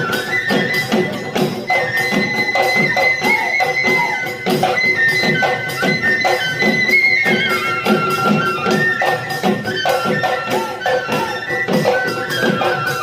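Assamese Bihu folk music. Drums beat a steady rhythm under a high, long-held wind-instrument melody, with sharp cymbal-like strikes on the beat.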